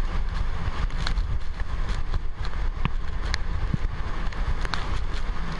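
Typhoon-force wind blasting against the microphone: a steady low buffeting rumble under a hiss, with a handful of brief sharp clicks or knocks scattered through it.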